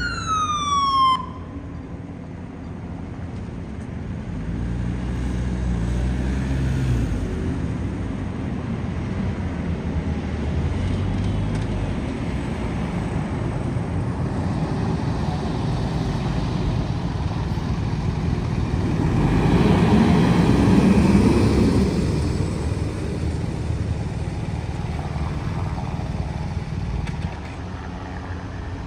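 An emergency-vehicle siren slides down in pitch and cuts off about a second in. After it comes the steady rumble of the passing police-escorted motorcade, with one vehicle passing loudest about two-thirds of the way through.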